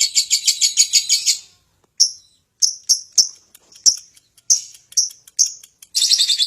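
Lovebird chirping: a rapid run of high chirps that stops about one and a half seconds in, then single sharp chirps spaced irregularly about half a second apart, and the rapid chirping starts again near the end.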